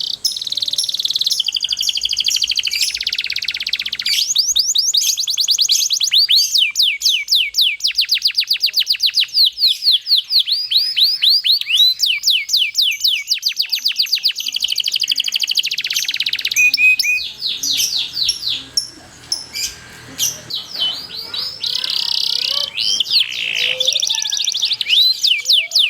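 Domestic canary singing a long rolling song: fast runs of repeated high notes, each sweeping downward, in phrases that change speed, with a quieter, broken stretch about two thirds of the way in.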